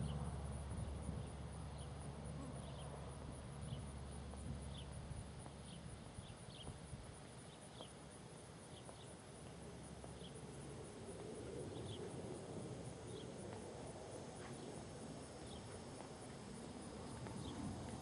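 Faint insects chirping, with short high chirps about once a second over a steady high hiss. A low rumble fades away over the first few seconds.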